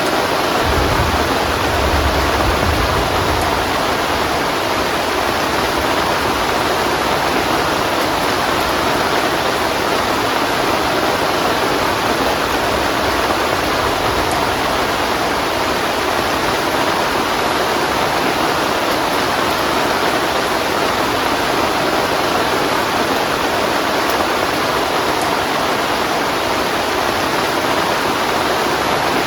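Heavy rain pouring down in a steady, dense hiss, with a low rumble in the first few seconds.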